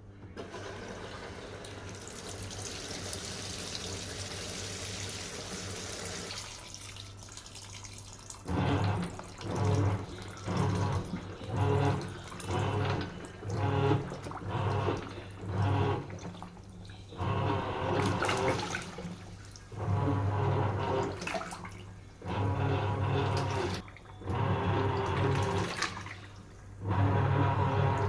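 Sharp washing machine: water pours in with a steady hiss for the first several seconds. Then the wash action starts, the motor churning in short on-off strokes about once a second, each a low hum with water sloshing, the strokes growing longer near the end.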